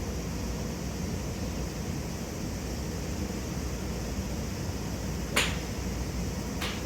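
Two sharp cracks of golf clubs striking balls, the first about five seconds in and louder, the second a little over a second later, over a steady low background rumble.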